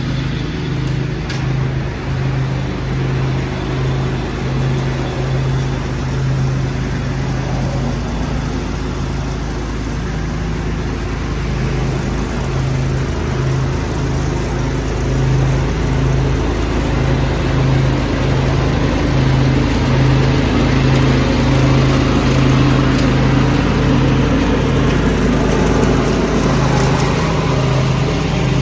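Small engine running steadily while a leaf vacuum sucks up leaves, a constant hum with a rushing sound of air and debris over it. It grows a little louder about halfway through.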